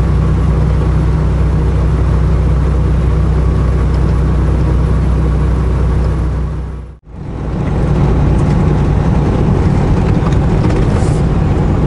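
Steady drone of a semi-truck's engine and road noise heard inside the cab while driving. The sound fades out briefly about seven seconds in and comes straight back.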